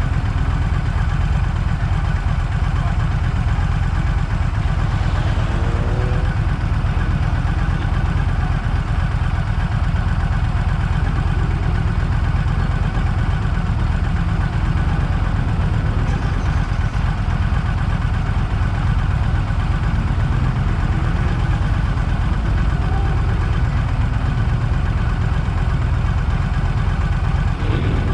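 Car engine running with a steady low drone, unchanging in level.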